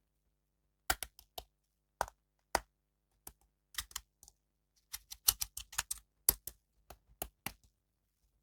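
An irregular series of short, sharp clicks and taps, about twenty of them, starting about a second in and coming thickest in the last few seconds.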